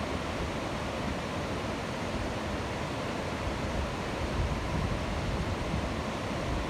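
Waterfall: a steady rush of falling water with a low rumble that swells and fades slightly.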